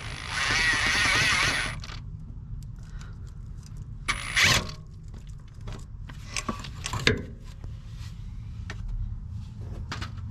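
Impact wrench run in two short bursts, the first about two seconds long and the second brief about four and a half seconds in, as a freed exhaust manifold bolt is spun out. Metal tools click and clink between the bursts.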